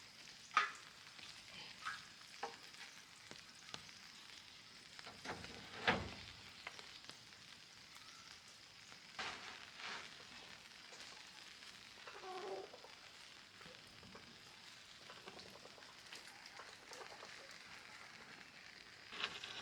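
Faint crackling hiss with scattered light knocks and taps, and one louder knock about six seconds in: handling noise from a man working by hand overhead to patch a spot where rain blows in.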